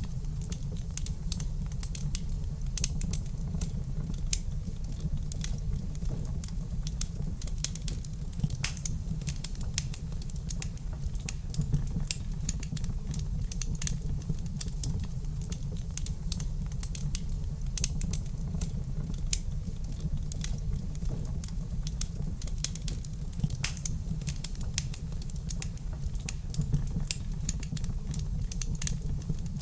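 Wood fire crackling in a fireplace: a continual scatter of sharp pops and snaps, a few louder than the rest, over a steady low rumble.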